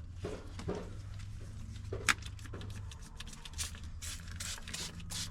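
Cloth wiping and rubbing over a car's vinyl and plastic interior trim while applying cleaner, with scattered light clicks and taps and one sharper tap about two seconds in, over a steady low hum.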